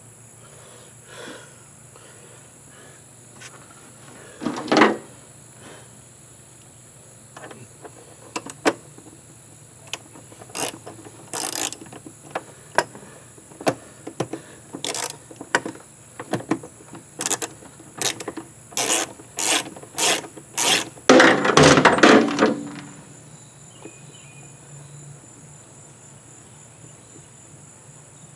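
Hand tools and loose parts being worked on an outboard motor: a run of sharp clicks and taps through the middle and a louder scraping rattle near the end, as screws and plastic pieces are taken off. A steady high insect drone sits behind it.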